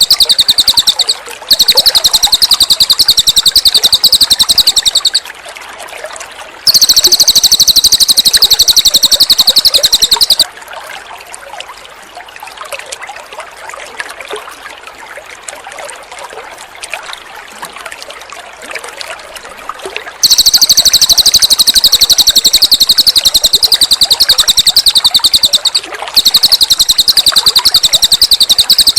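Cililin bird singing long, high-pitched, very fast chattering trills in four stretches, over steady trickling water. The water runs alone for about ten seconds in the middle, between trills.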